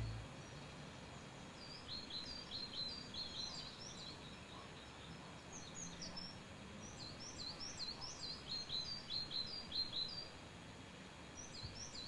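Small birds chirping faintly: runs of short, quick, high chirps over a low, steady background hiss.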